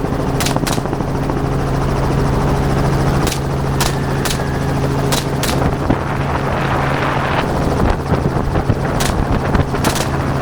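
Helicopter engine and rotor running steadily in flight, with sharp cracks in quick pairs several times: rifle shots fired from the helicopter at hogs.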